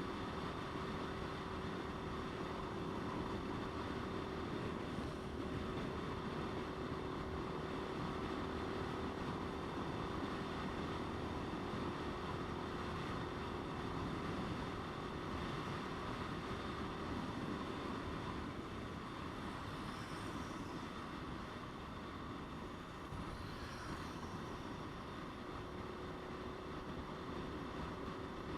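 Motorcycle riding at a steady speed, engine note and wind and road rush from the ride-along microphone; the steady engine tone falls away about two-thirds through, with the overall level dipping slightly, and returns near the end.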